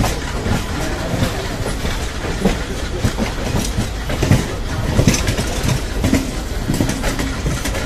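Passenger train coaches rolling slowly over the track, heard from an open coach door. A steady rumble of wheels on rails is broken by irregular clicks and clanks as the wheels cross rail joints and points.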